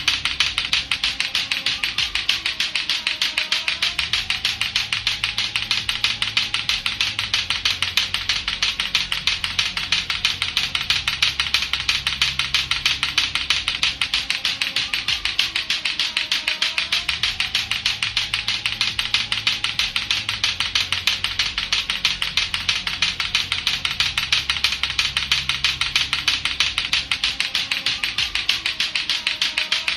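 Latto-latto clackers, two hard plastic balls on a string knocked together, making a fast, steady run of sharp clacks over a low music bed.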